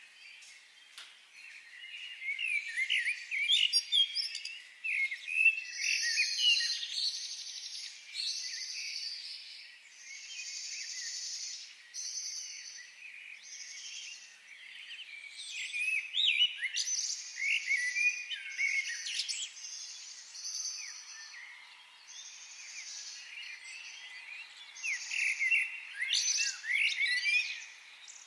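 Forest birds singing and calling together: many overlapping chirps, quick trills and short buzzy phrases, rising and falling in density.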